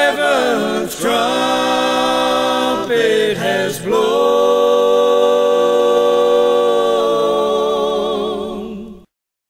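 Unaccompanied gospel vocal harmony singing the closing line of the song, ending on a long held chord with vibrato that fades out and stops about nine seconds in.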